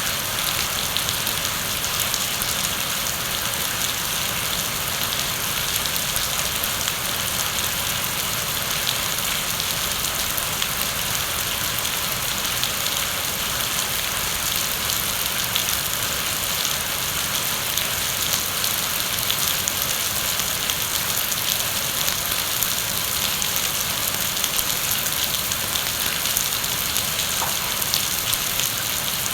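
Steady heavy rain falling, a dense even hiss with many fine drop ticks, unchanging throughout.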